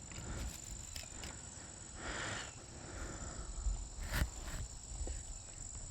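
Crickets trilling, a steady high-pitched drone, over a low rumble, with a brief rustle about two seconds in and a sharp click about four seconds in.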